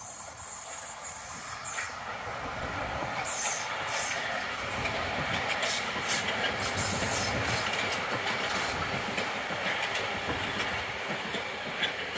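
Hamburg U-Bahn U1 electric train passing through the cutting, its wheels clicking over the rail joints. The sound swells over the first few seconds, holds while the train goes by, then slowly fades as it leaves.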